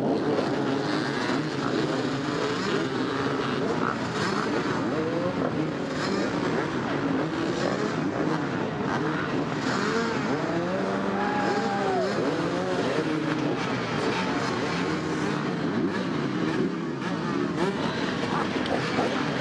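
Several off-road dirt bikes revving hard and accelerating together, their engine pitches rising, falling and overlapping; the sound rises suddenly right at the start.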